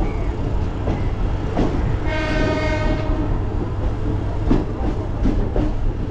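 Suburban electric train running, heard from its open doorway: a steady low rumble with sharp wheel clacks over rail joints and points, a few of them in the second half. About two seconds in, a train horn sounds one steady note for about a second.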